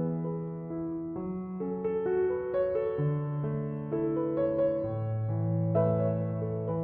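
Background music: slow, soft piano, sustained notes changing about every half second to a second.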